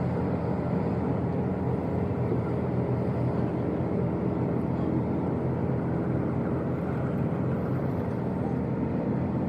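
An engine or similar machine running steadily at constant speed, a continuous hum with no change.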